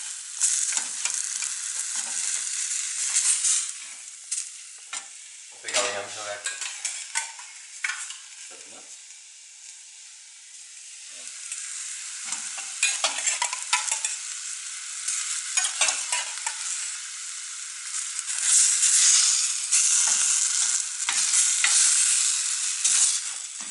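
Chopped capiçoba greens frying and sizzling in a stainless steel pan while a wooden spoon stirs and scrapes against the pan. Partway through, cooked yam pieces are added and stirred in, and the sizzling and scraping are loudest near the end.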